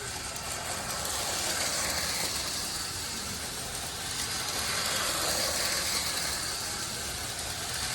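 Lionel Rail Blazer toy train running fast around its track: the electric motor hums and the wheels rattle on the rails, the sound swelling and fading as the train comes nearer and goes away on the loop.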